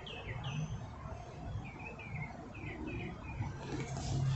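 A small bird chirping in the background: a run of short, quick notes, each falling in pitch, coming in little groups. A soft rustling noise builds up near the end.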